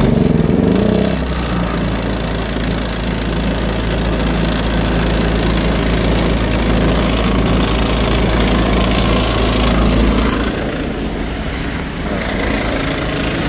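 Predator 2000-watt inverter generator's small single-cylinder four-stroke engine running steadily just after being started. The low hum drops away about ten seconds in.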